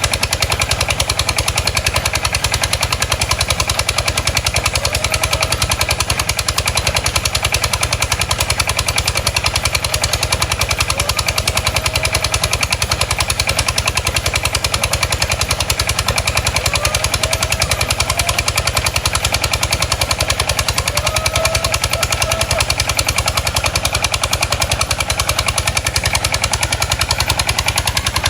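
Boat diesel engine running steadily, with a rapid, even train of exhaust pops.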